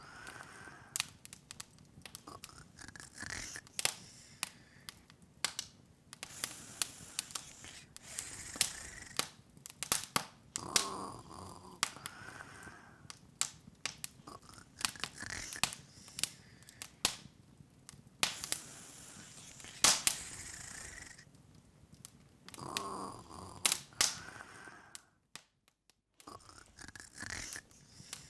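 Wood fire crackling in an open fireplace: irregular sharp pops and snaps over a soft hiss of burning. The sound cuts out briefly near the end.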